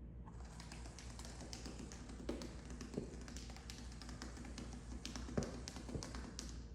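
Motorized rolling cat ball toy running across a hard floor: a steady rattle with scattered taps and knocks, starting just after the beginning and cutting off near the end.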